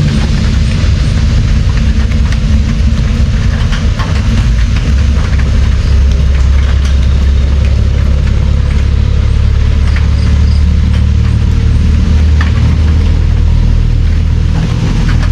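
Steady heavy rain, with individual drops ticking and a deep continuous rumble underneath that grows heavier about five seconds in.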